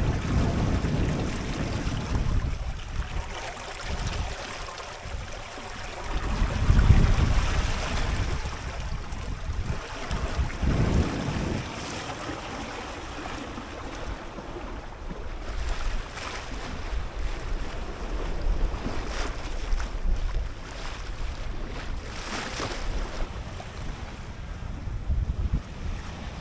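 Wind buffeting the microphone in gusts, over the wash of water along a small sailboat moving under sail.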